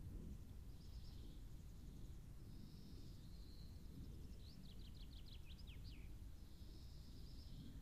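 Faint birdsong over a low steady rumble. There are short high phrases every second or two, and about halfway through a quick run of about ten falling notes.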